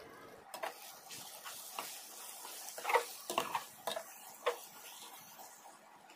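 Chicken curry being stirred in a pan: a run of clicks and scrapes of a utensil against the pan, the loudest about three seconds in, over a frying sizzle.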